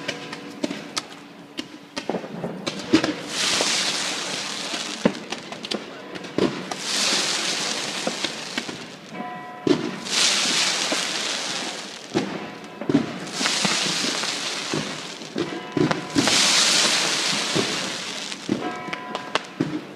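Fireworks going off, with sharp bangs and pops and about five long crackling hisses of two to three seconds each.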